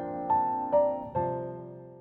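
Soft piano background music: a few single notes struck over a held chord, fading away near the end.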